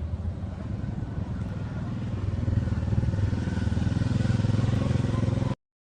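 A motor vehicle's engine running with a steady low pulse, getting louder about two seconds in, then cutting off abruptly near the end.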